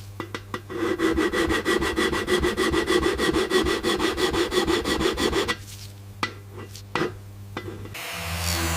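Rapid back-and-forth rubbing strokes on silverware, about eight a second, which stop after about five seconds. A few single clicks follow, and a steady hum starts near the end.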